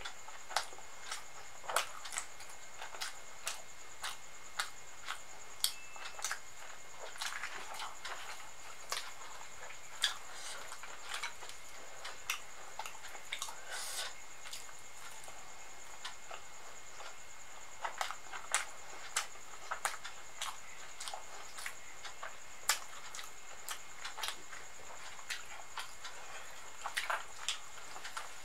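Close-miked eating sounds: irregular wet smacks and clicks of a mouth chewing puri with spicy dum aloo potato curry. A thin, steady high-pitched whine runs underneath.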